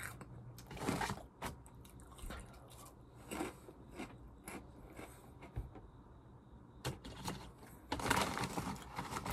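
Chewing crunchy Ogamja potato snacks, with scattered short crunches. About eight seconds in, the foil snack bag rustles and crinkles as a hand goes into it.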